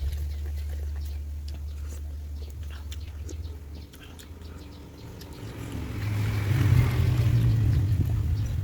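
A motor vehicle's low engine hum that grows louder about six seconds in, with scattered faint clicks.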